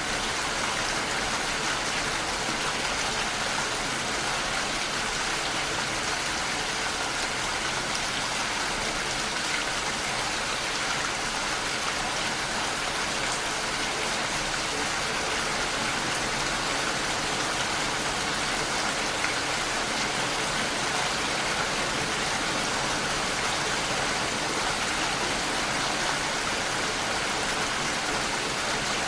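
Steady rain, an even hiss with no distinct drops standing out.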